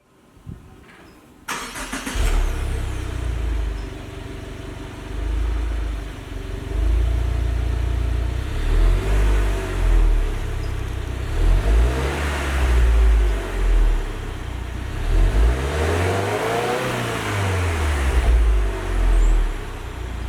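2022 Subaru WRX's 2.4-litre turbocharged flat-four on its stock exhaust, starting up about a second and a half in and settling to a steady idle. From about halfway on it is revved in a series of short blips, each rising and falling back to idle.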